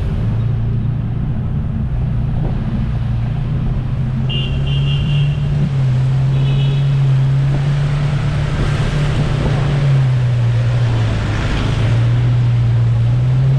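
An engine running steadily with its pitch rising and falling as the throttle changes. Two short high-pitched tones sound about four and six seconds in.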